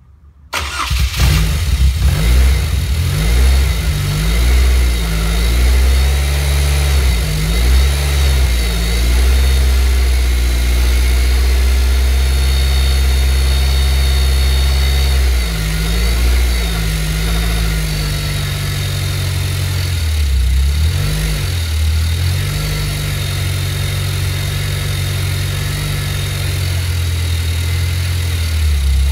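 Caterham 420R's 2.0-litre Ford Duratec four-cylinder engine catching about half a second in on its very first start after the kit build. It then runs with the revs rising and falling unevenly, and settles to a steadier idle in the second half.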